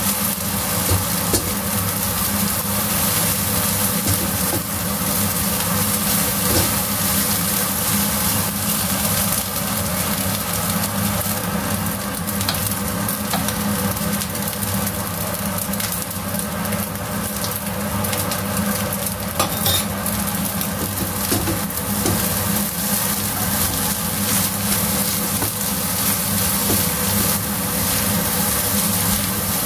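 Beef fried rice sizzling in a non-stick wok as it is stirred and turned with a silicone spatula, over a steady low hum.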